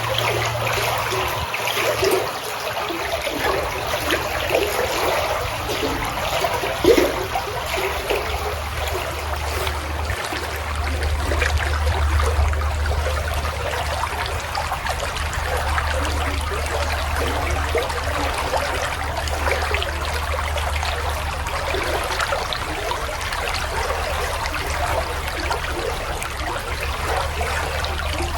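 Running water trickling and splashing steadily, like a small stream or outflow, with a low steady hum coming in underneath about a third of the way through.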